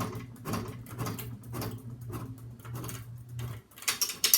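SMC Park Avenue III ceiling fan running on high with a steady motor hum and a rhythmic noise about twice a second. Near the end the hum stops and a rapid, loud clicking rattle starts, which the owner puts down to the fan's pull chain.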